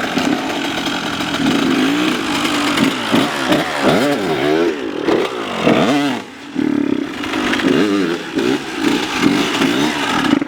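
Dirt bike engine revving up and down again and again, its pitch swooping high and low, with a brief drop in level about six seconds in.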